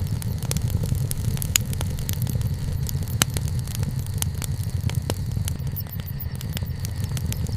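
Wood bonfire burning, with a steady low rumble and frequent sharp crackles and pops, the loudest about one and a half and three seconds in.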